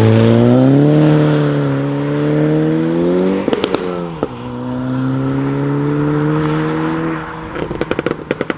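Modified car engine revving with a rising pitch, a brief crackle of exhaust pops about three and a half seconds in as the revs fall, then holding steady revs before a rapid string of exhaust pops and cracks near the end.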